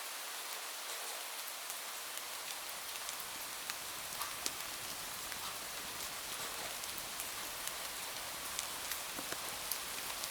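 Steady rain falling on a window, an even hiss sprinkled with many small scattered ticks and pops.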